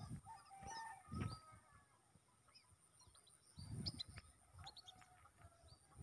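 Faint, scattered bird calls: short chirps and one longer held call about a second in, with a few low thuds of handling noise.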